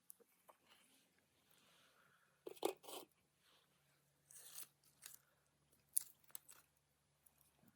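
Someone eating: a few short, crisp crunches and chewing sounds, the loudest pair about two and a half seconds in, the rest later and softer, between near silence.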